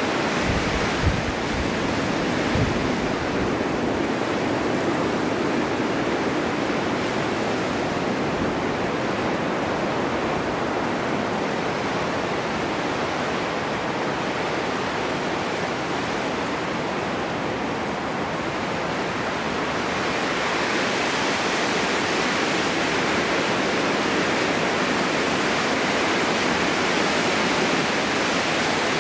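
Snowstorm wind blowing as a steady rushing noise, swelling and growing brighter about two-thirds of the way through. A couple of low thumps near the start.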